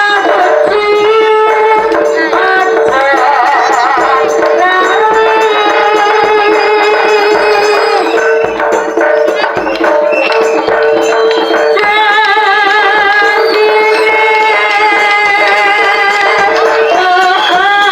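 Loud live jaranan music: a Javanese drum-and-gamelan ensemble with a wavering melody line over a steady held note and regular low drum strokes.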